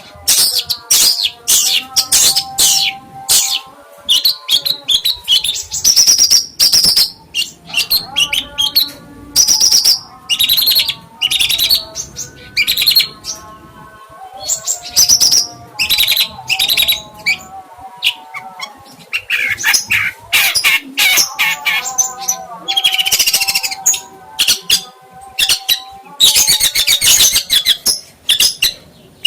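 A songbird singing loudly in quick, varied chirps, trills and whistled glides, with short pauses, over background music with held tones.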